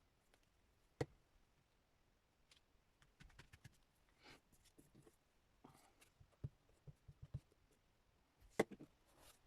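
Quiet handling of paper and craft materials on a desk: scattered light taps and clicks with a few soft rustles, the sharpest taps about a second in and near the end.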